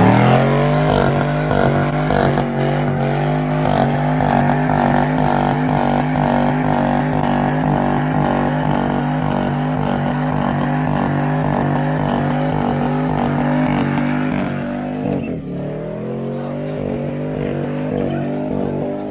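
Car engine revved up hard and held at a steady high rpm for a burnout. About three quarters of the way through, the revs dip sharply, then climb back and hold a little lower.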